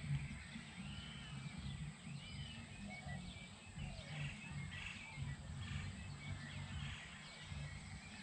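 Birds chirping in many short, curved whistled calls over a low, steady rumble.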